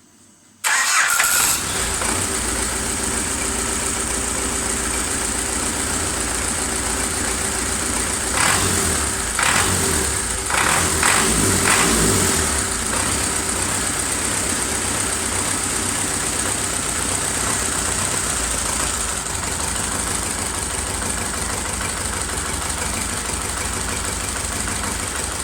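Four-cylinder D-240 tractor diesel engine starting on its electric starter for its first run after a major overhaul. It catches suddenly about half a second in and then runs steadily, with a few brief louder surges between about 8 and 13 seconds in.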